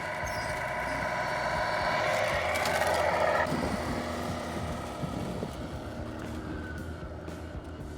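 Tamiya King Hauler radio-controlled truck's electric motor and gearbox whining as it drives, growing louder before cutting off suddenly about three and a half seconds in.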